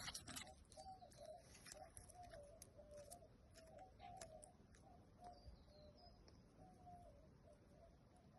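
Faint bird calling: a low, wavering note repeated over and over in short phrases. A few light clicks come through, the sharpest right at the start.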